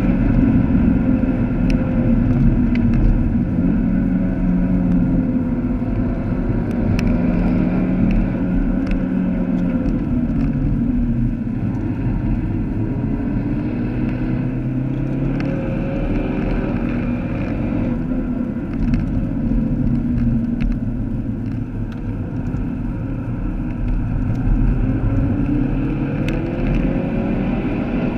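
Interior sound of a Vauxhall Astra VXR's turbocharged four-cylinder engine driven hard on track, its note repeatedly climbing and dropping as it pulls through the gears, over steady road and tyre noise in the cabin.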